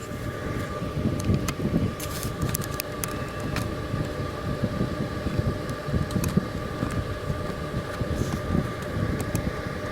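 Wood stove and waste-oil burner burning hard with the damper wide open: a steady low rumbling roar of the fire's draft, with scattered sharp crackles.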